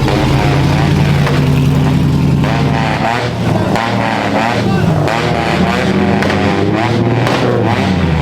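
Car engines running and revving. A steady engine note holds for about the first three seconds, then engine pitches rise and fall repeatedly.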